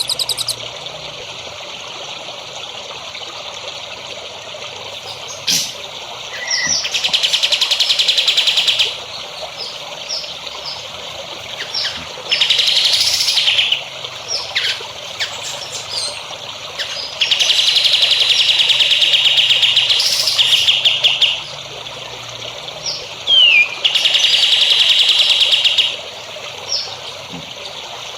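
A songbird sings rapid, buzzy trills in four bursts of about two seconds each, with short chirps and whistles between them. Water trickles steadily underneath.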